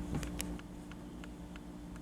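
Diecast toy models being handled: a few light clicks in the first half second, over a steady low hum.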